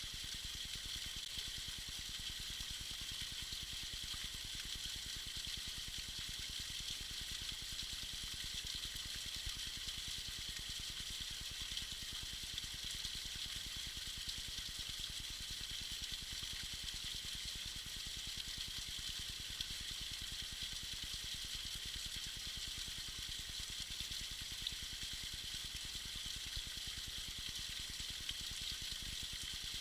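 Tiny icy waterfall splashing steadily: an even, high hiss of falling water with no let-up.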